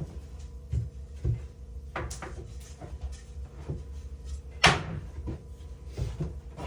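Irregular knocks and clunks of wood being handled during wall framing, with a sharper, louder knock about two-thirds of the way through.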